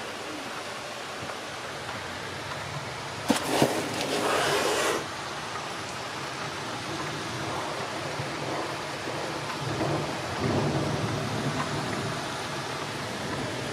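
Heavy summer rain pouring steadily. About three seconds in, a sudden louder burst of noise with a couple of sharp cracks cuts off abruptly after under two seconds. A low rumble swells around ten seconds in.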